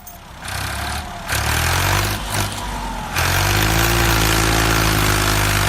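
Engine running steadily with a low drone, getting louder about three seconds in.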